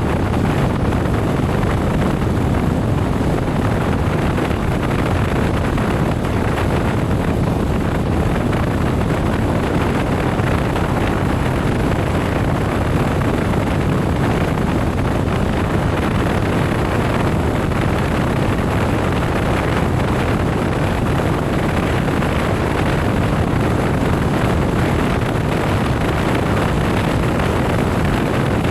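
Steady rush of wind and road noise from a motorcycle riding at a constant speed, heaviest in the low end, with no change in pitch or level.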